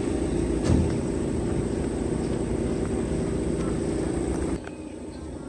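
A steady mechanical hum with a short thump a little under a second in. The hum cuts off suddenly about four and a half seconds in, leaving a quieter background.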